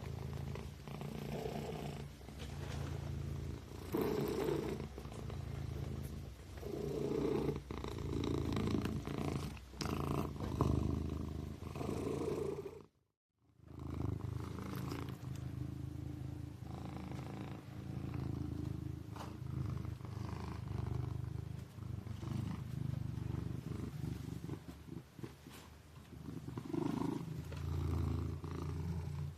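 Kitten purring steadily, the low rumble swelling and easing with each breath about every second and a half. It cuts out completely for under a second about halfway through.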